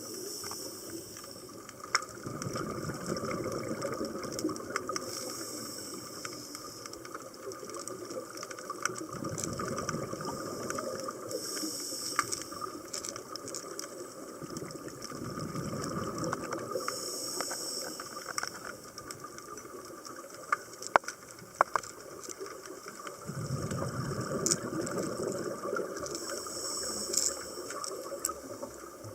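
A scuba diver breathing through a regulator underwater: a hiss of inhaled air recurs every few seconds, with rumbling gushes of exhaled bubbles. Scattered sharp clicks run throughout.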